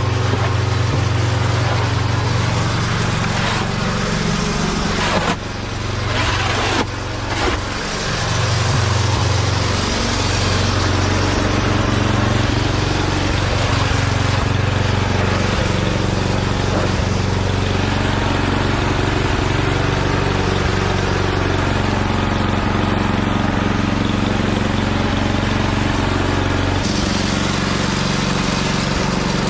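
Murray Ultra 8/27 snowblower's 8 hp single-cylinder engine running steadily, with a brief drop in level about five to eight seconds in before it settles back.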